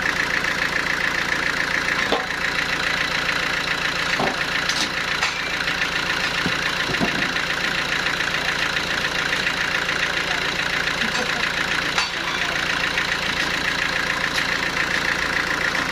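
Sawmill machinery running steadily, an engine-like drone with a fast, even rattle, and a few sharp knocks about two, four and twelve seconds in.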